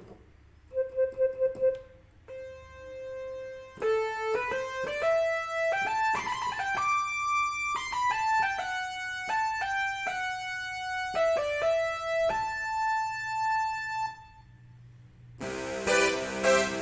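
Casio CT-S1 portable keyboard playing a single-note melody, opening with a few quick repeated notes and a held note. After a short pause, a much fuller sound with many notes at once starts near the end.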